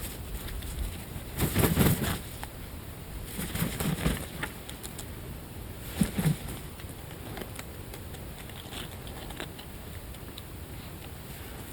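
Birds feeding on scattered biscuits: three short, noisy flurries of fluttering and scuffling, about two seconds apart, over a steady hiss, with faint scattered ticks afterwards.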